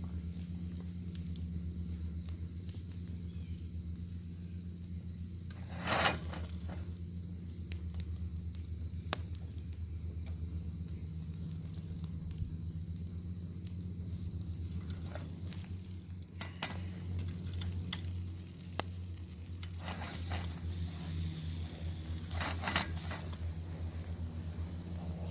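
Bacon sizzling over a wood fire: a steady high hiss dotted with small crackles and pops. There are louder spurts of spattering about six seconds in and again several times in the second half, over a steady low hum.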